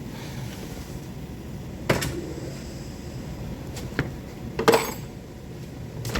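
A few sharp knocks and clicks of hand work on the car: one about two seconds in, another about four seconds in, then a quick double knock just after. Under them runs a low steady hum.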